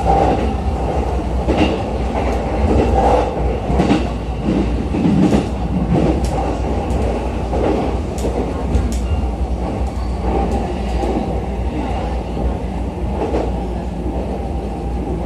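Running noise heard inside a JR East E233-series electric train car: a steady rumble of the wheels on the rail, with scattered sharp clicks and knocks from the track.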